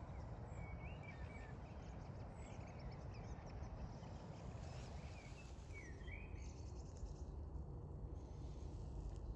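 Faint outdoor ambience: a steady low rumble with scattered small-bird chirps and short calls, and a brief fast high-pitched trill a little past the middle.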